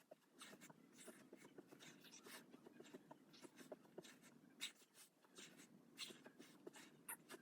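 Near silence with faint scattered rustles and soft taps.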